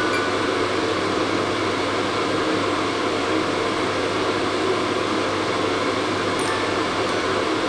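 Hair dryer running steadily: an even airflow hiss over a constant motor hum.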